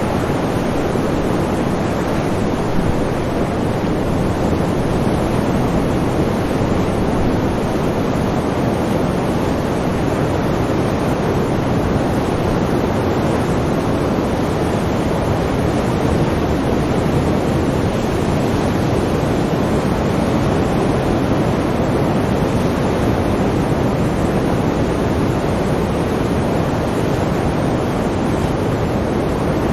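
Sea waves and surf washing in a steady, even rush of noise, with no single breakers standing out.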